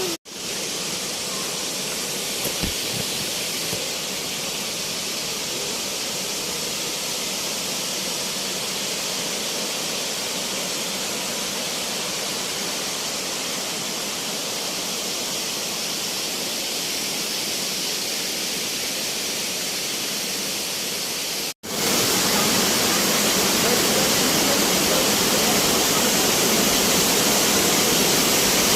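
Waterfall rushing in a steady even wash of water noise. It cuts out for an instant about two-thirds of the way in and returns louder.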